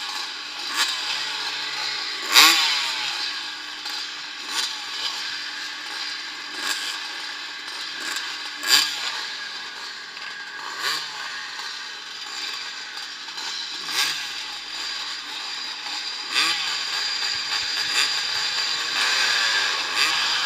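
Vintage motocross motorcycle engines racing, revving up and falling back again and again, with a loud peak every couple of seconds.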